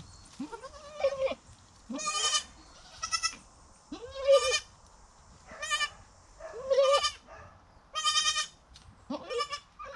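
Goats bleating: a string of about eight short, quavering calls, roughly one a second, each rising and then falling in pitch.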